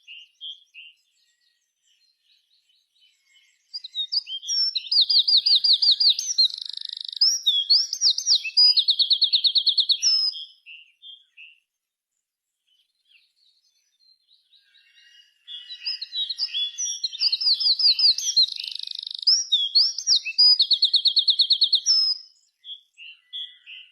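A songbird singing: two long, loud song phrases of about six seconds each, packed with rapid repeated trills and whistles, with a few short chirps before, between and after them.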